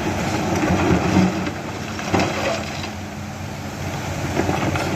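Hydraulic excavator's diesel engine running steadily, with a sharp knock about two seconds in as stones are handled.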